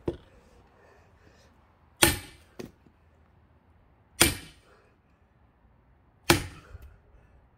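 Heavy axe blows on a pine log, three sharp wooden impacts about two seconds apart, each with a brief ringing, the axe stuck fast in the wood.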